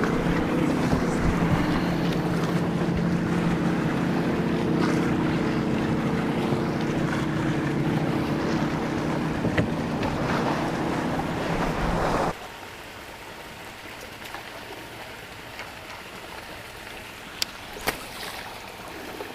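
A boat engine drones steadily over heavy wind and splashing water as a large boat wake rolls in. About twelve seconds in the sound cuts off abruptly to quieter wind and water noise, with two sharp clicks near the end.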